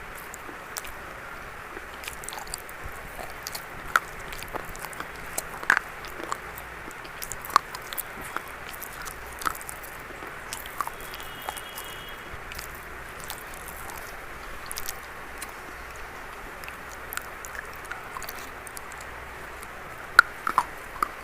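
Close-up biting and chewing of something crunchy, sharp single crunches spaced a second or more apart over a steady hiss, a couple of louder ones near the end.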